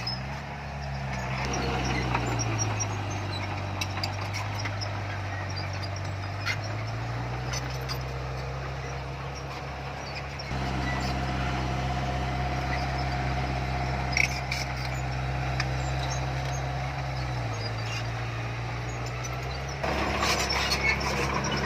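Heavy construction machine's diesel engine running steadily, its pitch falling and rising a few times as the revs change under work. The sound jumps abruptly about halfway through and again near the end.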